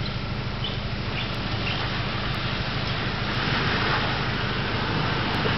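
A four-wheel-drive's engine running at low speed as it comes down a rocky track, slowly getting louder as it nears, with a steady rushing noise around it.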